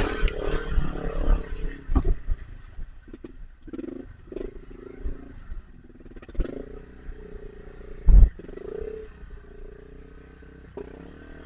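Trail motorcycle's engine revving up and down unevenly as the bike labours in deep, sinking mud, with a few sharp knocks and thumps, the loudest about eight seconds in.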